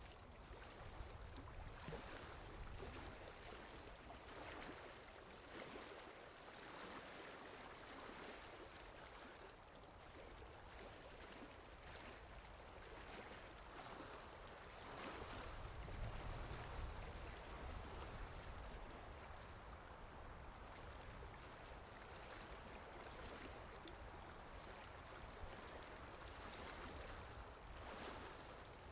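Steady rain falling, a soft even hiss of drops, with a low rumble swelling for a few seconds about halfway through.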